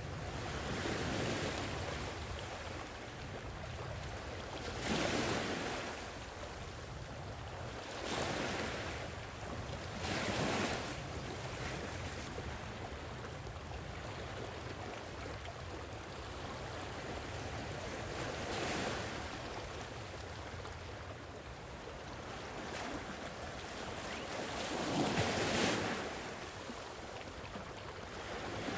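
Sea waves breaking and washing ashore, a steady hiss of surf that swells every few seconds, about six times, the biggest wave near the end.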